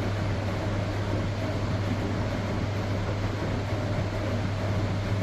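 Electrolux Professional WN6-20 commercial front-loading washing machine running mid-cycle: a steady machine hum with even noise over it.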